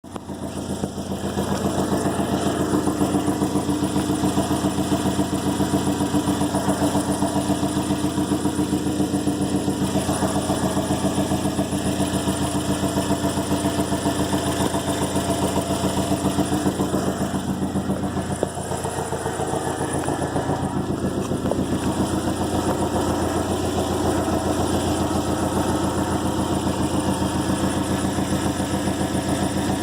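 Subaru WRX's EJ255 turbocharged flat-four engine idling steadily with a fast, even pulsing, carrying a noise that the owner puts down to the timing belt. The sound dips briefly about two-thirds of the way through, then settles again.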